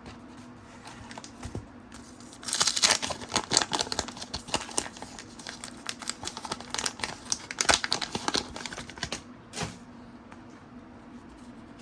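Paper wrapper of a trading-card pack being torn open and crinkled in the hands: a dense run of crackles and rustles that starts about two and a half seconds in and stops near the end.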